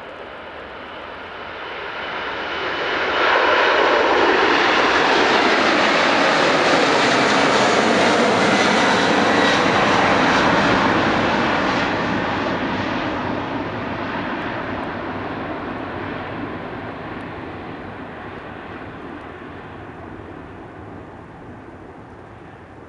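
Boeing 747-400F freighter's four jet engines at takeoff power as the aircraft passes. The sound grows over the first few seconds, is loudest for about eight seconds with a sweeping rush as it goes by, then fades slowly as it moves away.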